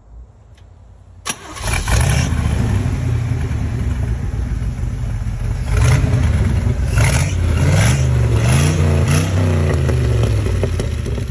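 Chevy 350 small-block V8 in a 1955 Willys Jeep CJ5 starting a little over a second in, catching at once and settling to a steady idle. In the second half it is blipped with several quick revs.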